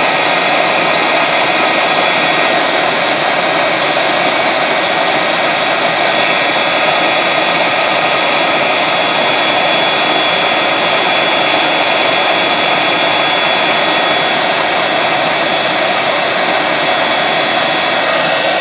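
Homemade forced-air propane burner running steadily: an even rushing roar of the flame fed by an electric air mattress pump, with a faint steady high whine on top.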